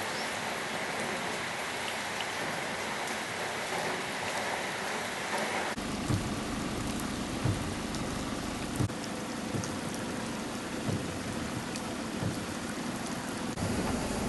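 Steady rain falling. About six seconds in the sound changes abruptly: a low rumble comes in underneath the rain, with occasional short low thumps.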